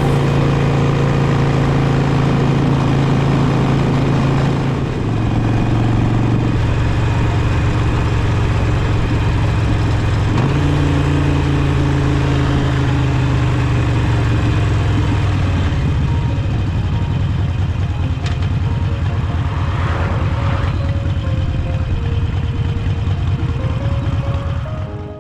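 Harley-Davidson Sportster's V-twin engine running under way, its pitch stepping up and down a few times as engine speed changes.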